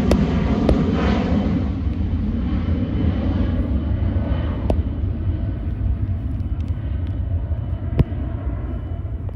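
Twin turbofan engines of a Cessna Citation Latitude business jet at takeoff power, the jet noise fading as the aircraft climbs away: the hiss dies off over the first couple of seconds, leaving a low rumble. A sharp click about eight seconds in.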